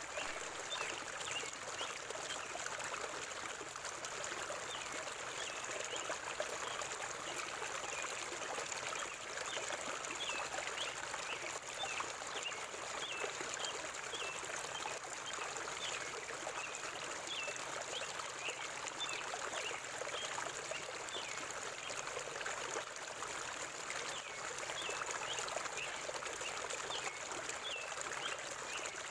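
Forest river water flowing steadily, with many short high chirps from birds repeating throughout.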